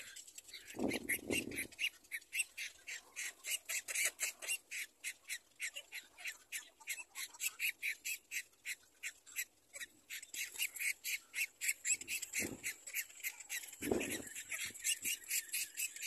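A rapid, even series of short, high clicking bird calls, about five a second. A few short low-pitched sounds break in about a second in and twice near the end.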